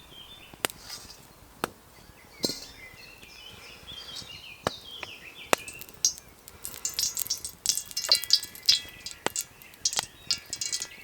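Small birds chirping in short, quick calls, with sharp single clicks or knocks every second or so. A denser, louder patch of crackling ticks fills the second half.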